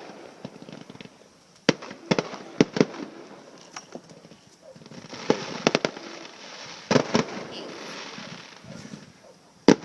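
Consumer fireworks going off: loud, sharp bangs in quick clusters of several at a time, with crackling in between.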